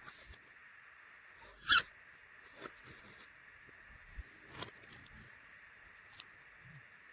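A short, sharp rising squeak about two seconds in, followed by a few light clicks and rustles of small plastic toy pieces being handled.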